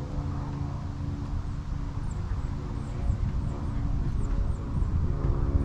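Engine running with a steady low hum.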